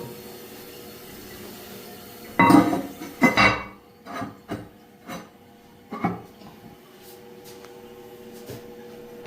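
Irregular knocks and clatters of hard objects being handled and set down, a loud cluster about two and a half seconds in, then a few lighter knocks spaced out, over a faint steady hum.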